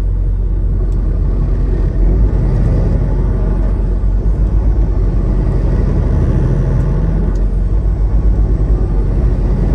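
Semi truck's diesel engine and drivetrain heard from inside the cab: a low, steady rumble.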